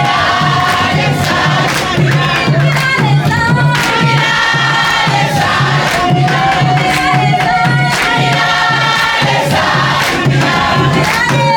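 A congregation and choir singing a worship song over music with a steady low beat, about two beats a second.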